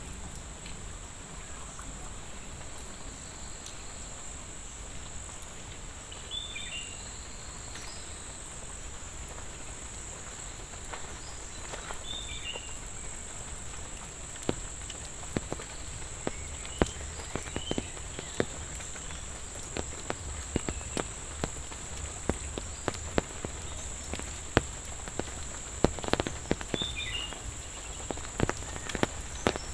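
Steady high-pitched insect chorus, with a few short bird chirps. Raindrops begin pattering as sharp scattered clicks, sparse at first and growing more frequent over the second half.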